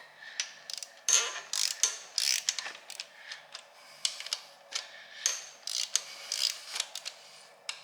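Ratchet wrench clicking in short, irregular strokes as cylinder head bolts are worked loose.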